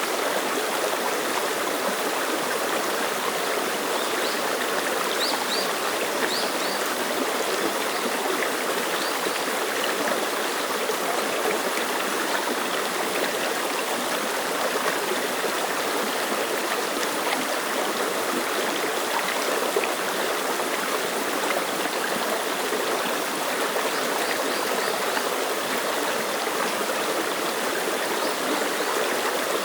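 Mountain stream running steadily over rocks, an even rushing and babbling of shallow water.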